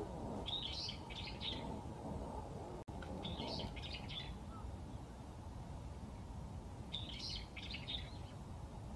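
Wild birds calling in short, high-pitched bursts of rapid notes, three times, over a steady low background hiss.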